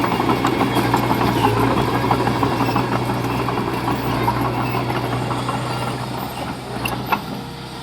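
Heavy-equipment diesel engine running steadily with a rattling clatter, easing off a little near the end, with a single sharp knock about seven seconds in.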